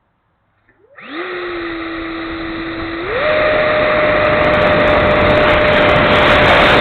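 The 70 mm electric ducted fan of an E-flite F-16 Thunderbirds RC jet spools up about a second in: a steady whine over a rush of air. About two seconds later, as the throttle is advanced, the whine steps up in pitch and gets louder, then holds.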